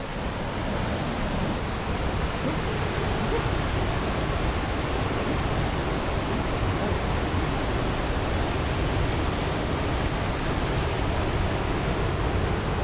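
Mamquam Falls pouring, a steady, even rush of falling water that does not change.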